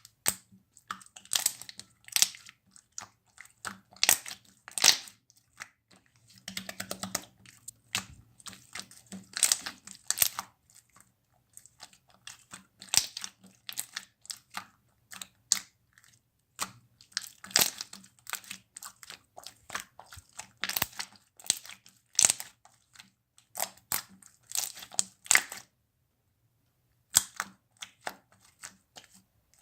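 Slightly melted Elmer's glue slime being squeezed and poked by hand, giving clusters of sharp clicks and crackly pops in irregular bursts, with a brief pause near the end.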